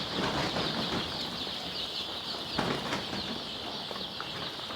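A large flock of young chicks peeping continuously: many overlapping short, high, falling peeps. A dull knock sounds about two and a half seconds in.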